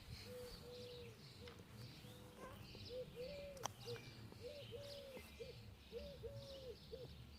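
A dove cooing, faint and low, in a repeated three-note phrase of short, long and short coos, with small birds chirping faintly in the background.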